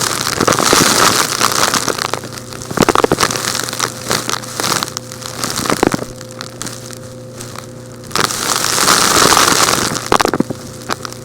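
Crumbly, rock-like chunks being crushed and crunched with tools, giving irregular crackles. Two stretches of gritty, hissing sifting, the second about eight seconds in, run over a steady low hum.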